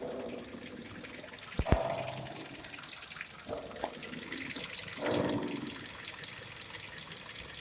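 Kia Rio front suspension squeaking and creaking as the steered wheels are turned, in several rubbing swells with a sharp knock about two seconds in. The squeak comes from the ball joint, which the owner replaced.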